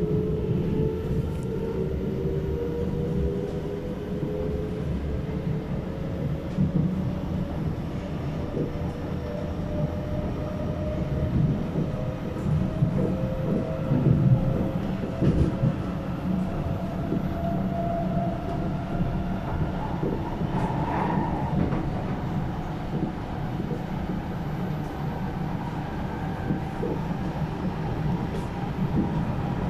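Inside an SMRT C751B train car running on the rails: steady rumble of wheels on track with occasional faint clicks, over a motor whine that rises slowly in pitch as the train picks up speed.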